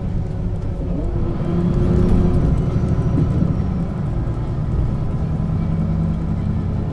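1996 Setra S 315 UL bus's diesel engine and ZF gearbox running under way, heard from on board. The engine pulls harder and grows louder about two seconds in, then settles to a steady drone.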